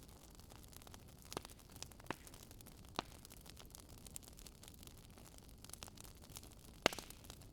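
Wood fire crackling: a few sharp, scattered pops over a faint steady hiss, the loudest near the end.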